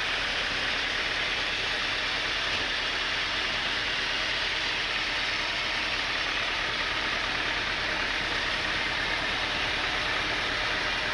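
Sawmill saw and machinery running with a steady, unbroken noise as a mahogany log is sawn.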